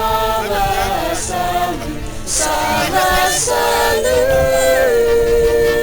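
A group of voices singing together without accompaniment, settling into one long held note from about four seconds in.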